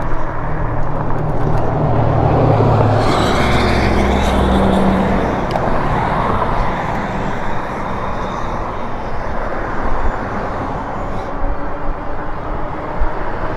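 A motor vehicle passing close by, its engine drone strongest in the first five seconds and swelling as it goes past, over steady wind and road noise from riding the e-bike.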